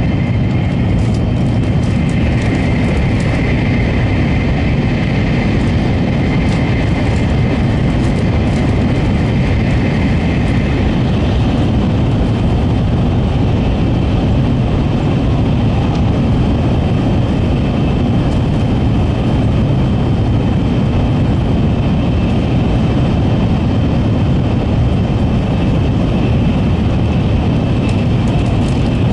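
N700-series Shinkansen running at speed, heard from inside a passenger car: a steady rumble of wheels, track and air, with a faint high whine that fades out about eleven seconds in.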